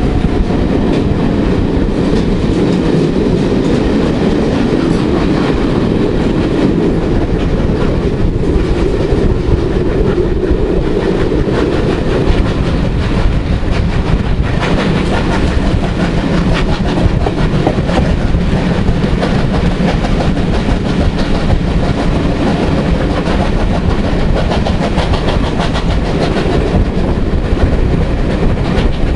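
Steam-hauled passenger train running at speed, heard from an open carriage window: a steady rush of running noise and wind with wheels clicking over the rail joints. It sounds fuller and more enclosed for the first dozen seconds, while the train passes beneath a covered structure, then more open.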